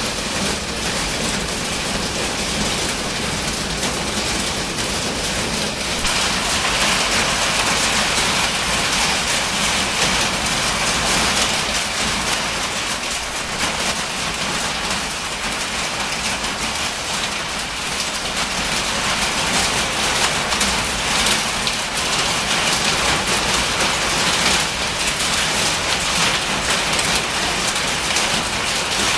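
Hail the size of large marbles pelting a metal building in a dense, continuous clatter of impacts, growing a little heavier about six seconds in. It is really loud on the metal.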